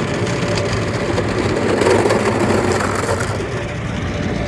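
Car wash top brush, its spinning soft-cloth strips slapping and rubbing across the car's body, a dense run of quick knocks that is loudest about two seconds in.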